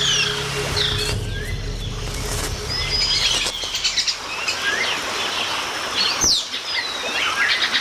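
Amazon rainforest birds calling over one another: many quick whistled chirps that rise and fall, with fast trilled runs of notes a few seconds in and again near the end.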